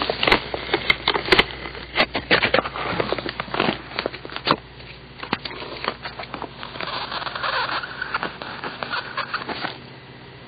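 Paper Mate ComfortMate Ultra mechanical pencil with 0.7 mm lead writing on paper: a run of scratchy strokes and sharp taps, with the lead squeaky. It goes much quieter near the end.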